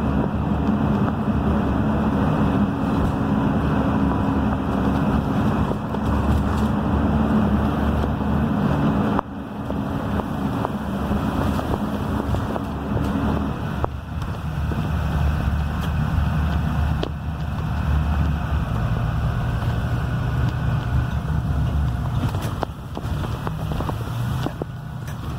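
Blue Bird Vision school bus's Cummins B6.7 diesel engine running on the move, with steady tyre and road noise from a wet road. About halfway through, the engine's pitch drops.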